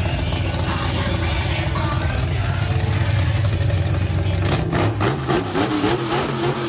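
Big-block V8 mud truck engine running hard under load during a truck pull. Near the end the engine note shifts and a run of sharp cracks breaks in.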